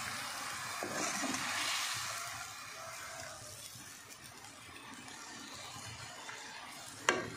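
Squid pieces frying in oil and the water they release, in a steel kadai: a steady sizzle that eases off after the first couple of seconds. A sharp clink sounds near the end.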